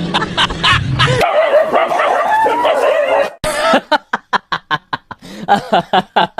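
A dog whining with a wavering pitch, then giving a quick run of short yips, about five a second.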